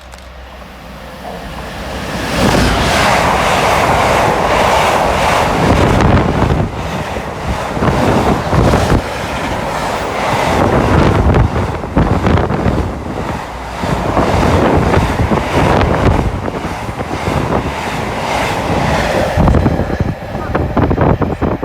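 A train passing close by at speed: its noise builds over the first couple of seconds and then stays loud, with the wheels clattering over the rail joints, before falling away near the end. Wind buffets the microphone as it goes by.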